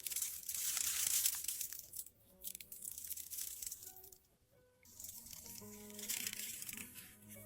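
Soft crackling, rustling noise in two stretches, at the start and again about five seconds in, over faint, gentle background music.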